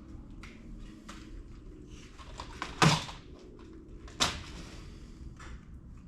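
Scattered clicks and knocks of metal parts and tools being handled on a workbench during carburetor assembly, two of them sharper and louder, about three and four seconds in, over a faint steady hum.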